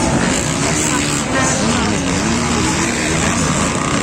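Motocross bike engines revving, their pitch rising and falling as the riders race.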